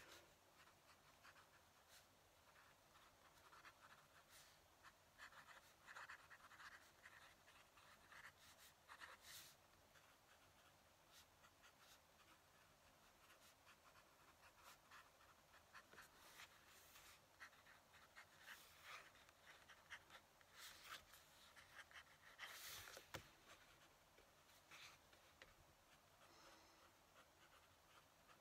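Faint scratching of a fountain pen nib on paper in irregular strokes, with an occasional small click.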